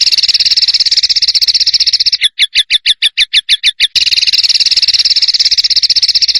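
A bird's harsh, rapid rattling trill, a rough 'tembakan' call of the kind played as masteran for songbirds. About two seconds in it breaks into a slower run of about a dozen separate chirps at roughly seven a second, then the fast trill resumes.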